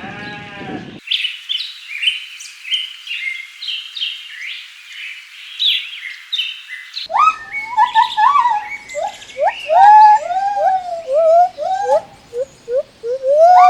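A bleat ends in the first second. Quick high bird chirps follow for about six seconds, then a run of lower bird calls that slide up and down in pitch.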